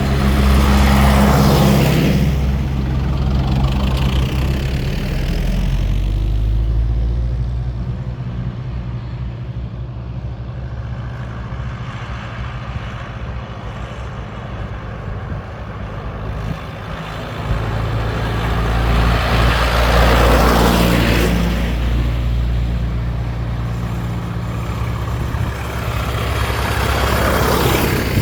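Tractor engines running as tractors drive past one after another. Each close pass swells and fades, once just after the start, again about two-thirds through and again near the end.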